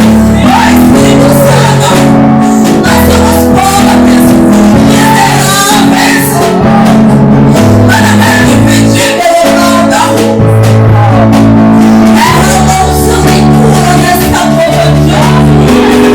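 Live worship music: a band playing sustained chords under a singing voice in a praise song, loud and steady throughout.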